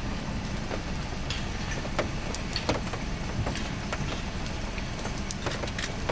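A car engine idling under a steady wash of storm noise, with rain striking the car body in sharp, irregular ticks that come thicker near the end.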